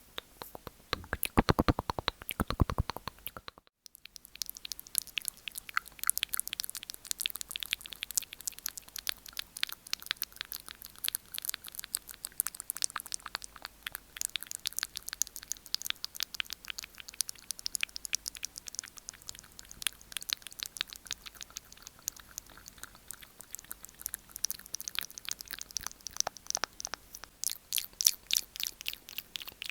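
ASMR mouth sounds close to the microphone: rapid wet clicks and smacks of tongue and lips. There is a brief break just before four seconds in, after which the clicks come faster and crisper.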